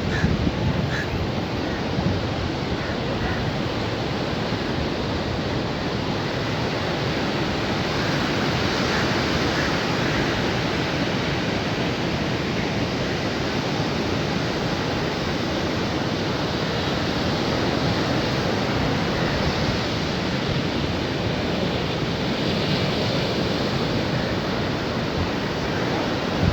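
Sea waves washing onto a beach: a steady rush of surf that swells gently every few seconds.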